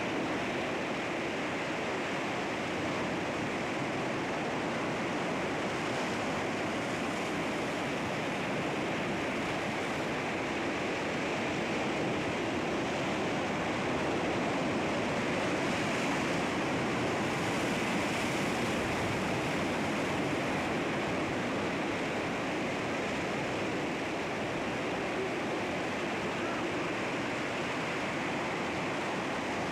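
Sea waves washing and breaking against rocks, a steady continuous surf that swells slightly about halfway through.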